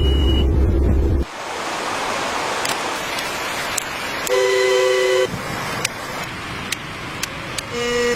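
A steady rushing noise opens with a heavy low rumble that stops about a second in. About four seconds in comes a horn-like toot lasting about a second, and a shorter one near the end.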